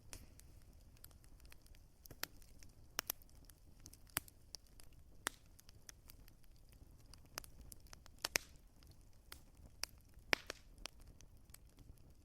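Wood fire crackling: irregular sharp pops, some louder than others, over a faint steady hiss and low rumble.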